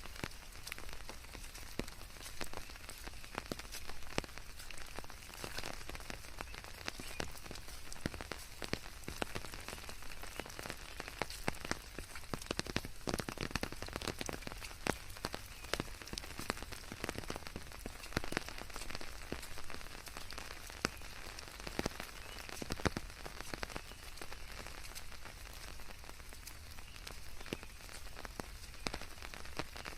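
Steady rain falling on leaves, with a dense patter of individual drops ticking irregularly over a constant hiss.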